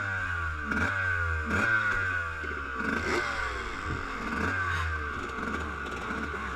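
Motocross bike engine revving in repeated blips, its pitch falling after each one, a little more than once a second.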